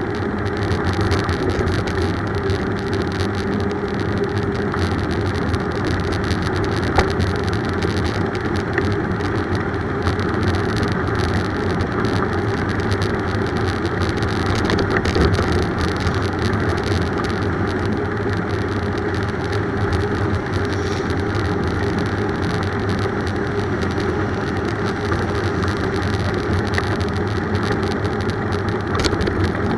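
Steady road noise of a bicycle ride: tyre rumble and wind on the move, with one sharp click about seven seconds in.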